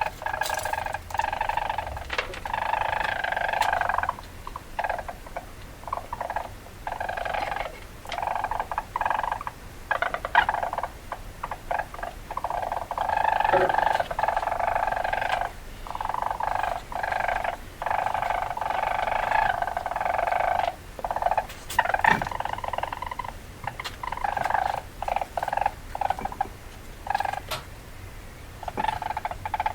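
Weasel chattering: repeated bursts of rapid chattering calls, each a second or two long, with short pauses between them.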